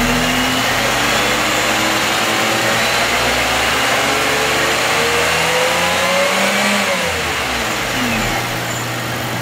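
Car engine raised above idle, its speed climbing steadily for about six seconds, then dropping back toward idle near the end.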